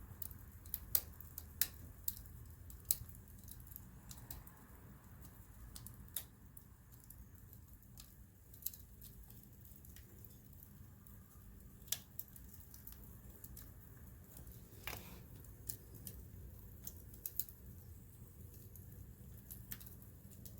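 Wood campfire crackling: irregular sharp pops and snaps over a low steady rumble, with a cluster of louder pops about a second in.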